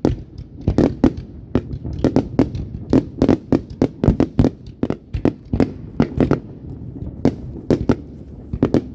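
Fireworks going off in a rapid, irregular string of sharp bangs, several a second, over a constant low rumble.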